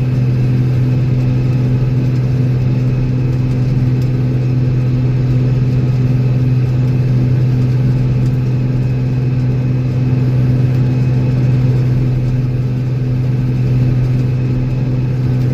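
Old Steiger four-wheel-drive tractor's diesel engine running steadily under load, a constant low drone with no change in pitch.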